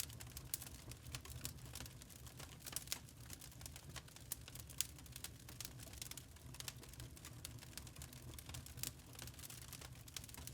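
Wood fire in a fireplace crackling: many sharp, irregular pops and snaps over a low, steady rumble.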